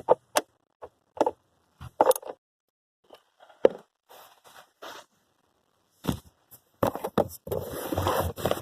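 Scattered clicks, taps and knocks of hand work on the blower motor's mounting bolts and housing, with a longer rustling, scraping stretch near the end.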